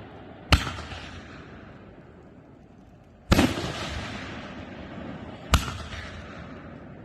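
Shots from an aerial fireworks cake of brocade-crown shells. A sharp report comes about half a second in, a louder boom with a long fading tail just after three seconds, and another sharp report near five and a half seconds.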